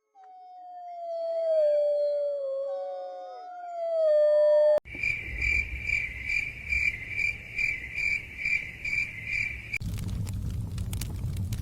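Several wolves howling in long, overlapping, falling calls, cut off abruptly about five seconds in by a cricket chirping in steady pulses about twice a second. Near the end this switches suddenly to a fire crackling with a low rumble.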